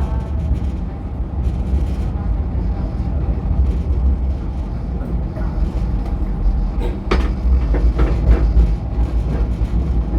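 MTR Light Rail train running on its track, with a steady low rumble and a few short clicks or knocks about seven to eight seconds in.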